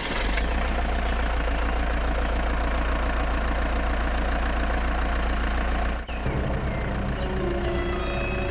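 Mini tractor's engine running steadily at idle just after starting. It briefly dips about six seconds in, then carries on with a changed tone.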